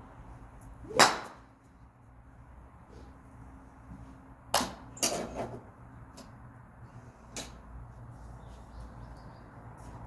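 Golf club striking a ball with a sharp crack about a second in. Several quieter cracks follow between about four and a half and five and a half seconds, and one more near seven and a half seconds.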